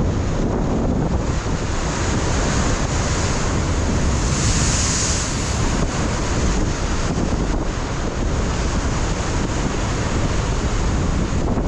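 Ocean surf breaking and washing over a rocky shoreline, a steady rush with a swell of hiss about halfway through, under a constant low rumble of wind buffeting the microphone.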